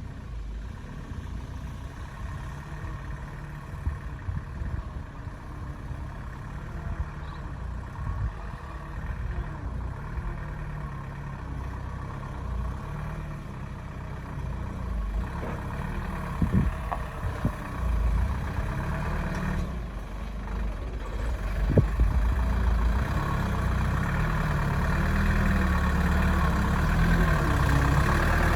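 Loaded sugarcane truck's engine running steadily, growing louder over the second half, with a few sharp knocks.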